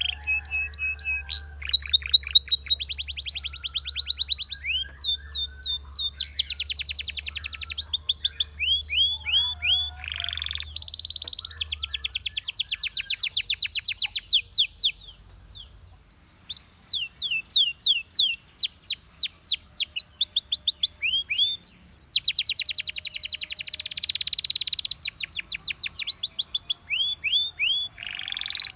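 Belgian canary singing a long, loud song of fast trills, each a run of rapidly repeated sweeping notes that changes to a new note type every second or two. The song breaks off for about a second about halfway through, then resumes.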